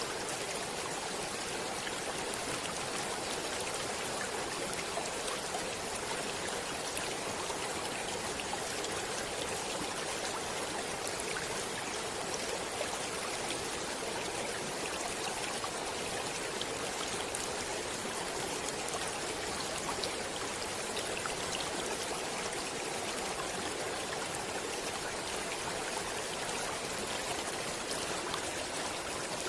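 Stream water flowing over rocks, a steady rushing with small splashes and trickles.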